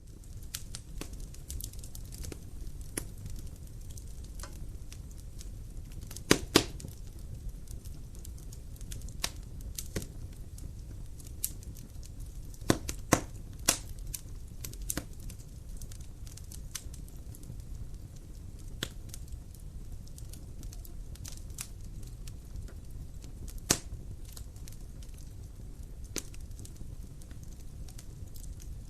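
Wood fire burning in a fireplace: a steady low rumble of flames with scattered sharp crackles and pops, the loudest clustered about six and thirteen seconds in.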